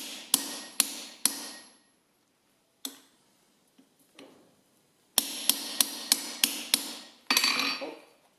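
Hand hammer striking a chisel to mark lines into hot steel bar on an anvil: a quick run of four blows, a single blow, then a run of about seven blows, each with a short metallic ring.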